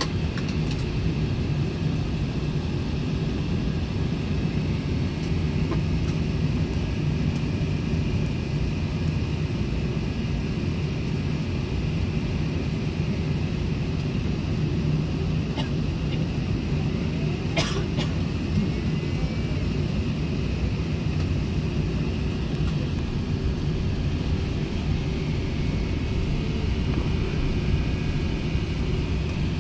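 Steady, unchanging low drone of an Airbus A380 airliner's engines, with one sharp click about two-thirds of the way through.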